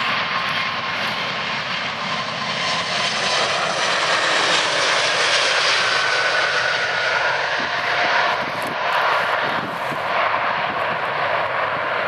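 Large jet airliner's engines running loud and steady as the aircraft passes close by, with a faint high whine that drops slightly in pitch past the middle.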